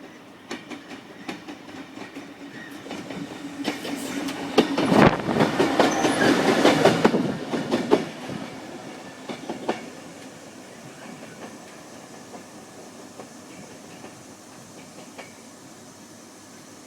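Class 66 diesel locomotive passing on its own, with no wagons: a steady engine note and wheels clicking over rail joints build up, are loudest about five to eight seconds in, then fade away.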